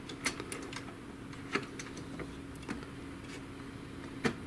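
Scattered light clicks and taps of the plastic parts of an inkjet printer's mechanism being handled during disassembly, with a sharper knock about four seconds in, over a faint steady hum.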